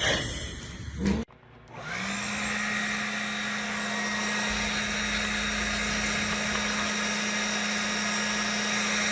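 An electric appliance motor spins up about two seconds in and runs at a steady, even hum, cutting off suddenly at the end. Before it, a short noisy stretch ends in an abrupt cut.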